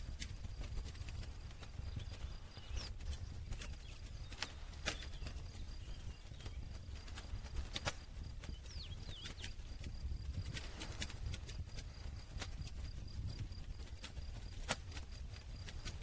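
Wood campfire burning, crackling with irregular sharp pops and snaps over a low steady rumble of the flames.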